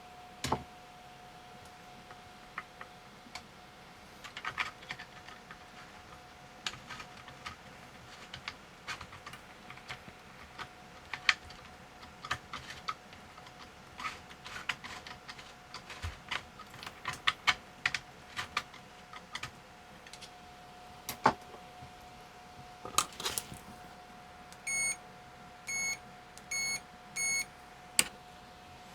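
Keys being pressed on a computer keyboard in irregular clicks and short runs, then four short electronic beeps roughly a second apart near the end. A faint steady tone hums underneath throughout.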